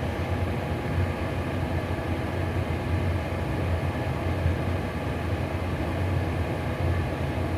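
Atwood RV propane furnace running after lighting, a steady low drone from its blower fan and burner. It runs smoothly while heating normally.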